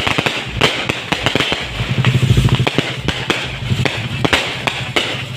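Fireworks and firecrackers going off in a rapid, irregular string of sharp bangs and pops. A low steady hum runs underneath, strongest about two seconds in.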